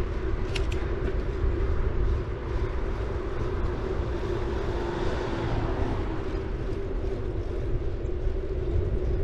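Bicycle riding sound: a city bike's tyres rolling on a paved road, with low wind rumble on the bike-mounted camera's microphone and a steady hum. A couple of light clicks about half a second in.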